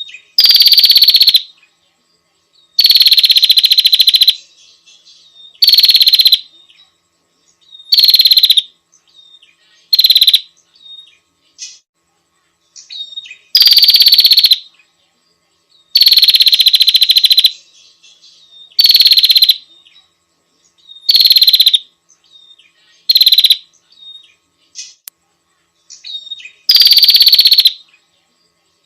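Female prinia (prenjak) giving its buzzy lure call to draw a male: about eleven loud, fast-pulsed rattling trills, each half a second to a second and a half long, with faint short notes in the gaps.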